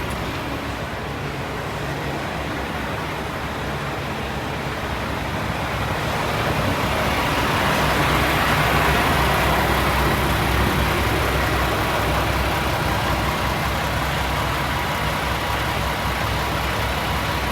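Heavy diesel engine of a semi truck idling steadily, with a hiss over it that swells a little about six seconds in.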